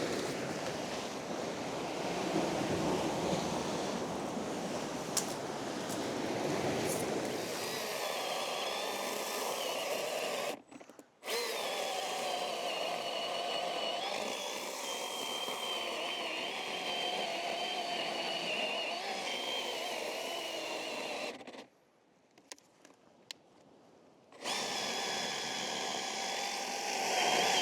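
A power tool's motor running with a steady, high whine, preceded by several seconds of rushing noise; it cuts out abruptly twice and starts again.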